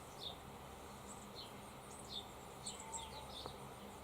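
Faint, scattered high chirps of small birds calling in the garden, over a low steady hum.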